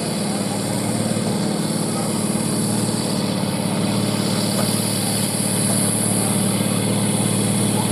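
A two-wheel-drive farm tractor's diesel engine working steadily under heavy load as it drags a tractor-pulling brake sled, slowly growing louder.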